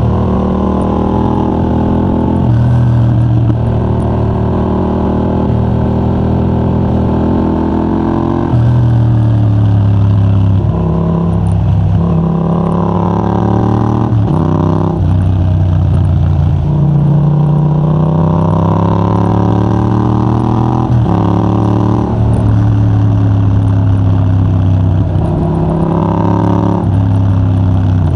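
Yamaha MT-07's 689 cc parallel-twin engine through a de-catted Mivv GP Pro titanium exhaust, pulling hard through the gears. The pitch climbs under acceleration and drops suddenly at each of several gear changes.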